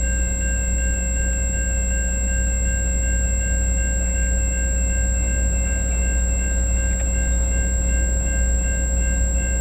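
Approaching diesel freight train, not yet at the crossing: a steady low rumble with a few steady tones over it.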